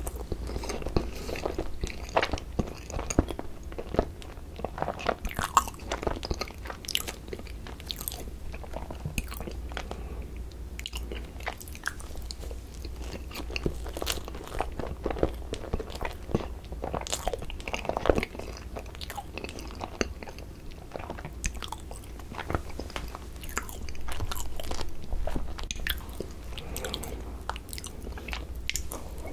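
Close-miked chewing of soft cream-filled bread: many short, wet mouth smacks and clicks, with a louder stretch about 24 seconds in.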